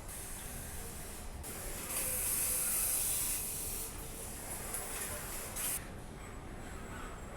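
Car-factory machinery on a body assembly line hissing, high and airy. It is strongest for about a second and a half starting two seconds in, and a second hiss cuts off suddenly near the end, over a steady low hum of the plant.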